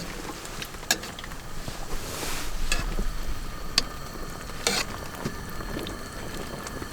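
Pot of tortellini soup simmering and bubbling while it is stirred, with several sharp clinks of the utensil against the pot.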